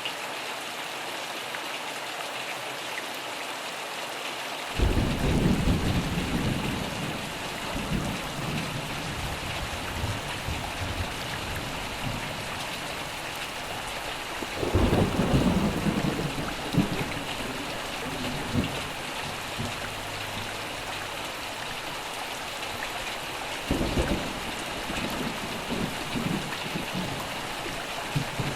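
Steady rainfall with three rolls of thunder, about five seconds in, near the middle and near the end, each a sudden low rumble that rolls on for a few seconds and fades.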